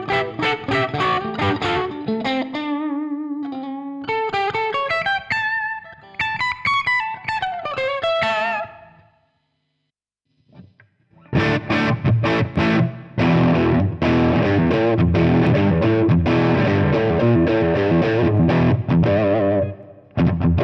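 Electric guitar played through a Fractal Audio FM9 amp modeler. For about nine seconds it plays single-note lead phrases with bends and vibrato. After a pause of about two seconds it switches to a dense, distorted chord rhythm in short repeated stabs, which stops briefly near the end.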